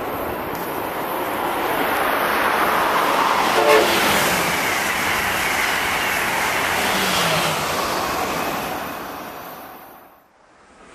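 Amtrak Acela Express high-speed trainset passing at speed: a loud rush of wheels and air that builds, holds and fades, with a falling tone as it goes by. A brief horn toot about four seconds in. The sound drops away suddenly near the end.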